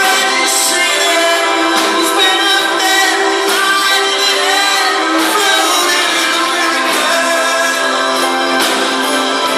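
Live progressive rock band playing on stage, heard as a thin, bass-light recording with no letting up in loudness.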